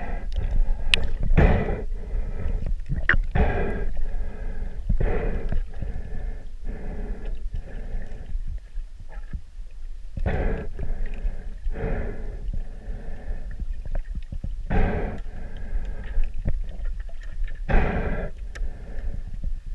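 A swimmer's breathing in the water, with bubbling gurgles, in irregular loud bursts every one to three seconds over a low steady rumble.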